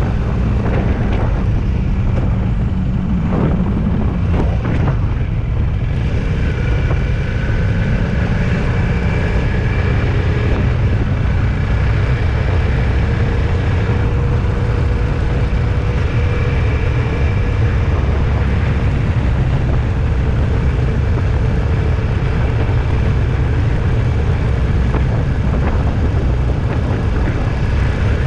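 A vehicle on the move: steady, loud road and engine noise with a faint drifting tone.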